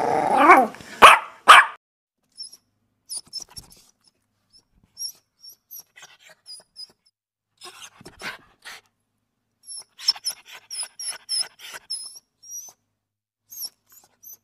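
A dog barks and growls in the first second and a half. Then come faint, high-pitched squeaks from newborn puppies as they nurse, mixed with soft clicks and shuffling.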